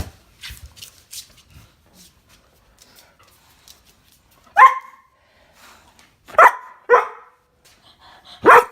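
Collie barking four times: one bark about halfway in, two quick barks close together, then one more near the end.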